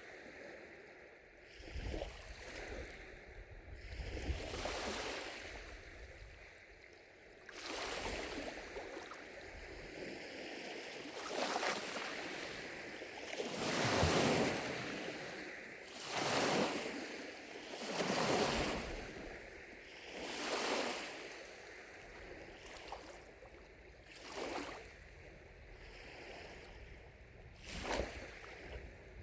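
Small lake waves lapping against the shore, one soft swell of water after another every couple of seconds, the biggest ones in the middle. A little wind rumble on the microphone near the start.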